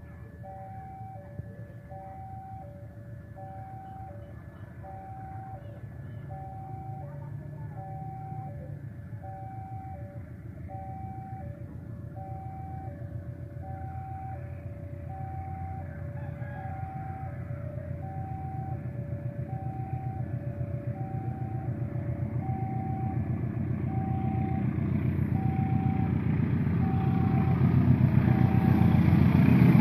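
Level-crossing warning signal sounding alternating high and low tones, about one pair every second and a half, while a CC 201 diesel-electric locomotive approaches with its train. The locomotive's engine rumble grows steadily louder and is loudest at the end.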